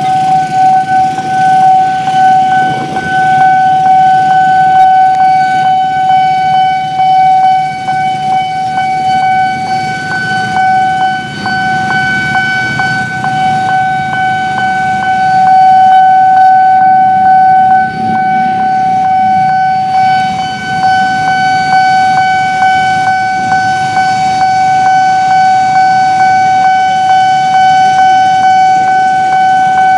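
Railway level-crossing warning alarm sounding one unbroken high tone, over the low rumble of a passing train with faint repeated ticks of wheels on the rails.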